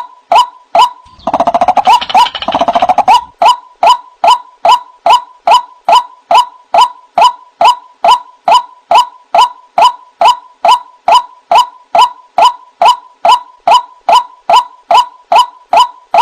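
White-breasted waterhen (ruak-ruak) calling: a fast, regular series of short, loud 'kwak' notes, about two and a half a second, each dipping slightly in pitch. About a second in, a harsh chattering bout of about two seconds overlaps the series before the plain repeated notes resume.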